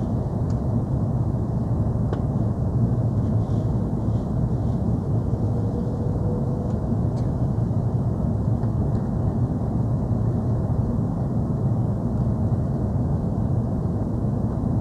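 Steady low rumble of an Airbus A330-300 heard from inside the passenger cabin: engine and airframe noise, with a few faint clicks.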